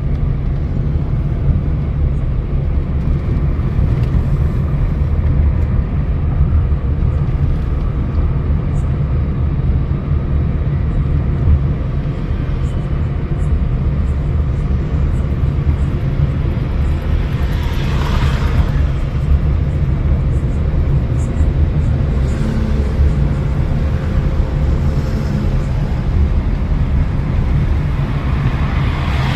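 Car driving: a steady low engine and road rumble, with a brief louder rush about eighteen seconds in.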